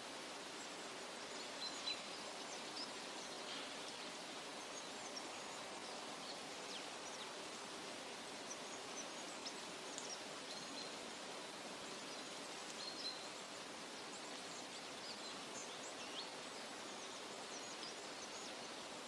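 Forest nature ambience: a steady, even rushing noise, with short high bird chirps scattered throughout.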